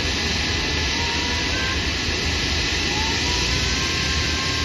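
Airbus A320neo CFM LEAP-1A turbofan engine during start-up: a steady loud rush with a faint whine that rises slightly in pitch as the engine spools.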